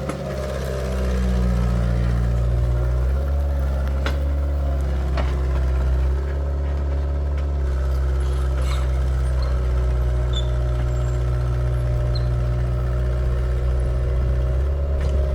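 Excavator engine running steadily at an even, low pitch, with a few sharp metallic clanks over it.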